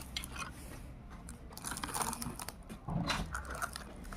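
Sand crunching and scraping as a toy bulldozer is pushed through it, in short irregular bursts with small clicks.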